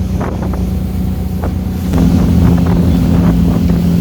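Motorboat engine running steadily, its note shifting and getting a little louder about two seconds in, with wind buffeting the microphone.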